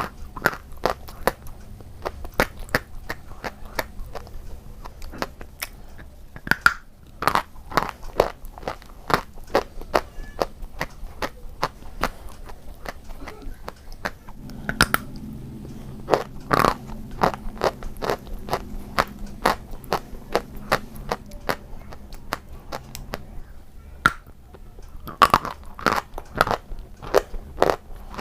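Close-miked crunching of white chalk: sharp, irregular bites and chews, dozens of crisp snaps one after another, with denser clusters near the middle and near the end. A faint low hum sits under the crunching from about halfway in.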